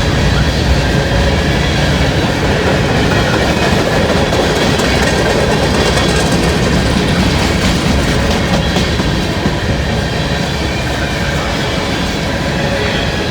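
Freight cars of a long train rolling past, with a steady rumble and the clickety-clack of wheels over the rails. It eases off slightly near the end.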